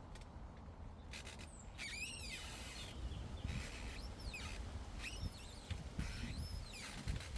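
A small bird singing several short, warbling high-pitched phrases that sweep up and down in pitch, one every second or so, over a steady low rumble.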